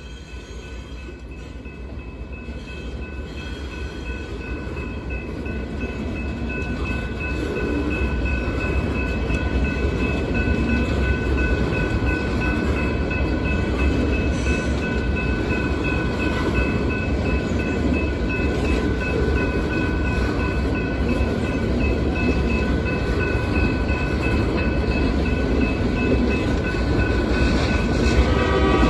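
Freight train of ballast hopper cars rolling past with a low rumble that grows louder over the first several seconds and then holds steady. A grade-crossing warning bell rings throughout.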